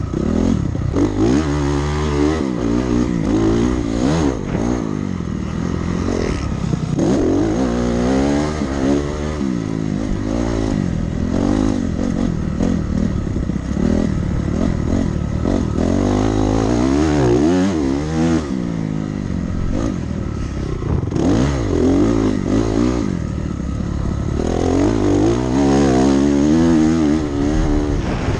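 Dirt bike engine running hard around a motocross track, its pitch climbing and dropping again and again as the rider revs up, shifts and backs off for jumps and corners.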